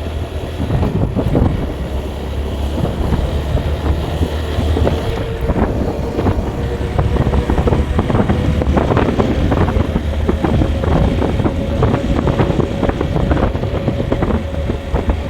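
Vehicle driving along with a steady low engine hum and wind buffeting the microphone. A faint whine creeps slightly up in pitch, and there are frequent knocks and rattles.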